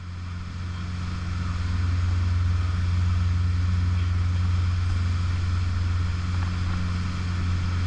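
A motor running steadily with a low, even hum, fading in at the start.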